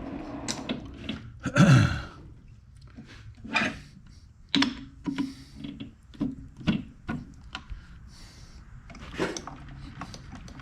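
A run of separate metal clanks, knocks and clicks from parts and tools being handled at a metal lathe, with one heavy thunk about two seconds in.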